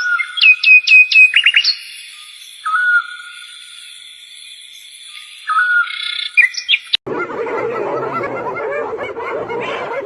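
Bird calls: a quick run of five sharp, high whistled notes, with lower drawn-out whistles now and then. About seven seconds in, the sound cuts to a steady babble of many voices.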